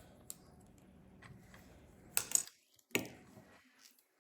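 Plastic Lego pieces clicking and clattering as they are handled, a few light clicks with the sharpest handful about two to three seconds in.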